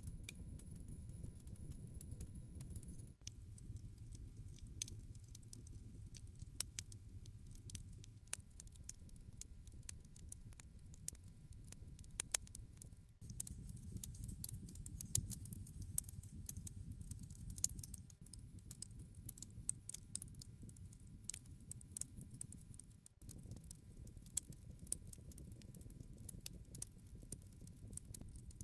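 Wood campfire crackling: irregular sharp pops and snaps over a low, steady rumble of burning. The rumble shifts abruptly about every ten seconds.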